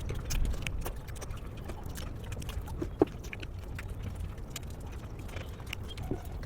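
Close-miked eating sounds: chewing with many small, crisp mouth clicks and crunches, and one sharper click about three seconds in.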